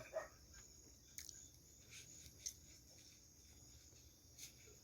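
Near silence: faint room tone with a steady high hiss and a few faint, short clicks.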